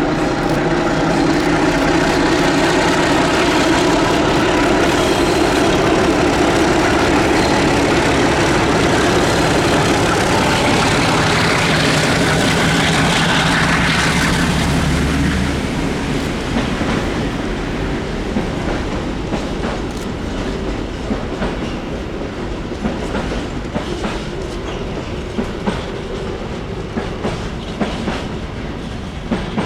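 Diesel-hauled freight train passing close by: the locomotive's engine runs loud through about the first half, then the wagons roll past with repeated clicking of wheels over rail joints.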